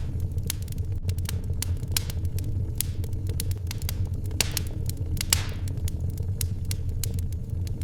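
Wood fire crackling in a fireplace: irregular sharp pops and snaps over a steady low rumble, with a brief hissing rush about halfway through.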